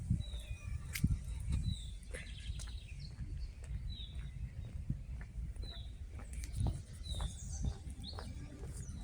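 A bird calling, repeating a short, falling chirp about once a second, over a steady low rumble and scattered light clicks.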